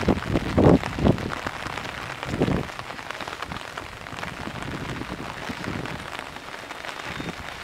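Heavy rain pattering steadily on hard surfaces, with a few louder, duller hits in the first three seconds.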